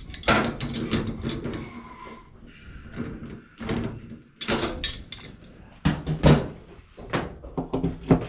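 A series of irregular knocks and clunks, like panels or fittings being bumped and handled, the loudest a pair about six seconds in.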